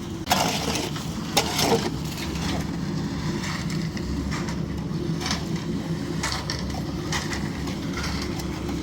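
An engine running steadily, with sharp knocks and scraping clatter over it, the loudest in the first two seconds.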